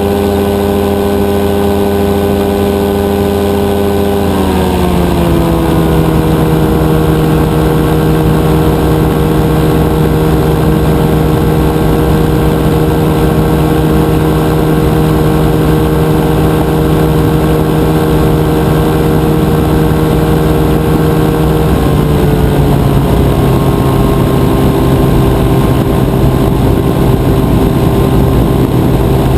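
Rotax 582 two-cylinder two-stroke engine of a powered parachute running steadily at high power. Its pitch drops in a step about four seconds in and again about two-thirds of the way through, as the engine speed falls.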